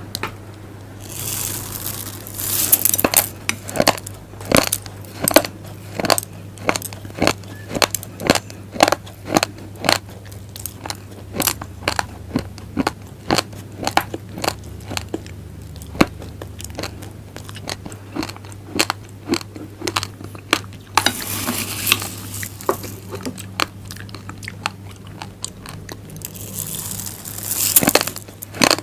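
Raw glutinous rice grains being chewed: a steady run of sharp, crisp crunches, about two to three a second, over a low steady hum.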